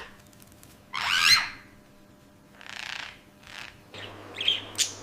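A pet parrot calling: one loud, gliding screech about a second in, a softer call near the middle, then a run of short chirps near the end.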